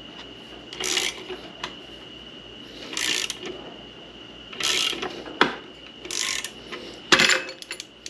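Ratchet wrench clicking in short strokes every couple of seconds as it turns the forcing screw of a clamshell bearing puller on a transmission output shaft, with a couple of sharper metal clicks near the end; the stuck bearing is not budging.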